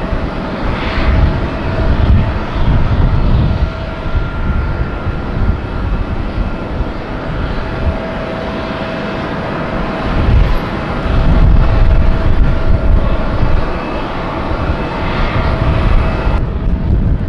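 Jet airliner engines on a landing approach: a loud rumble that swells and fades, with steady whining engine tones over it. The sound changes abruptly shortly before the end.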